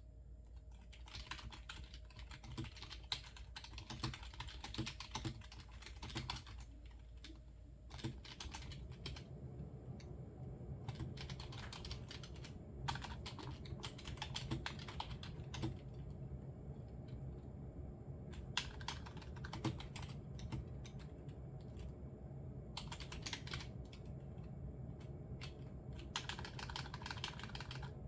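Typing on a computer keyboard: runs of quiet key clicks in several bursts with short pauses between them, over a steady low hum.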